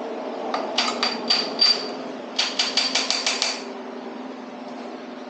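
Hammer tapping a bearing cap on a Chevrolet LT1 V8's bottom end to work it loose. It gives a few ringing metal-on-metal taps, then a quick run of about seven.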